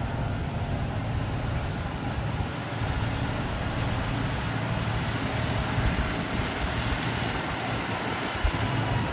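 Heavy diesel engine running steadily with a low rumble, typical of road-construction machinery such as a motor grader at work.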